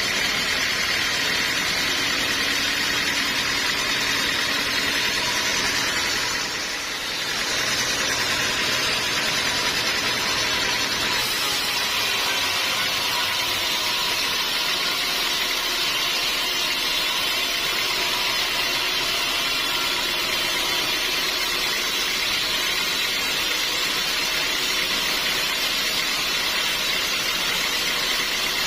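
Sawmill machinery running steadily, with a brief drop in level about seven seconds in.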